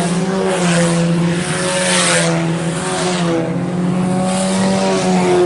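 A field of IMCA Sport Compact race cars running at speed, their four-cylinder engines holding a steady note while the noise swells and fades every second or two as cars go by.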